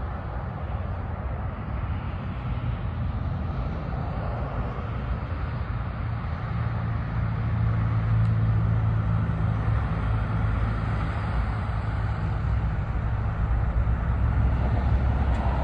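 Pickup truck engine running with a steady low hum and road noise, growing a little louder about halfway through and again near the end.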